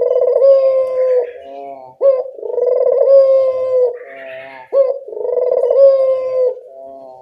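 Collared dove ('burung puter') cooing, used as a lure call: three calls about two seconds apart, each a short rising note followed by a long, steady coo.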